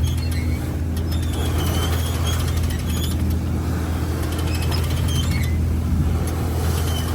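Old trawler's engine running steadily underway, with short light squeaks and creaks over it.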